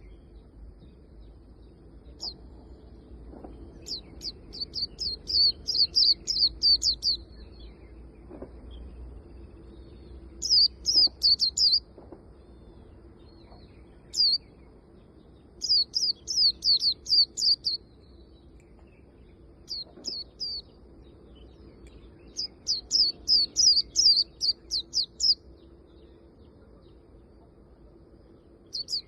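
Swinhoe's white-eye singing: rapid runs of high, sharp twittering notes in phrases of one to three seconds, about half a dozen phrases with pauses between them. A faint steady hum lies underneath.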